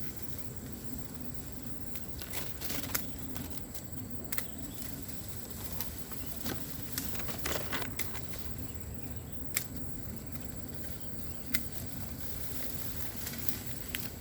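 Scattered, irregular sharp clicks and crackles of bamboo and brush being cut and handled, over a steady low hum and a thin, steady high tone.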